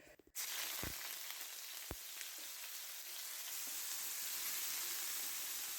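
Wild mushrooms frying in oil in a pan: a steady sizzle that starts suddenly just after the beginning, with a couple of faint knocks about one and two seconds in.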